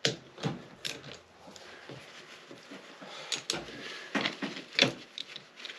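Irregular metallic clicks and knocks of hand tools and bolts being worked on an engine as its bolts are undone, the loudest knock near the end.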